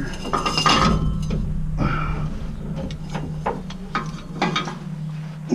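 Scattered metal clinks and knocks of hand work on the hitch rigging, over a steady low hum.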